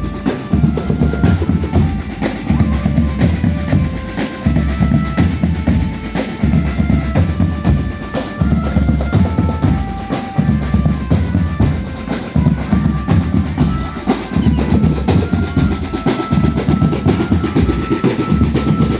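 Marching drum band playing: bass drums, snare drums and drum rolls keeping a steady beat, with a tune of short held notes played over the drums.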